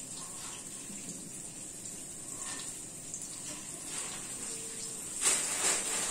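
Flour-dredged sardines frying in hot oil in a frying pan: a steady sizzle with faint crackles, which grows louder about five seconds in.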